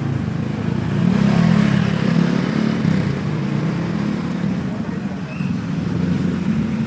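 A motor engine running steadily with a low hum, amid street noise.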